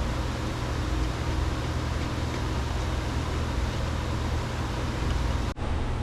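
A machine running steadily, a low hum under a broad hiss, broken by a brief cut about five and a half seconds in.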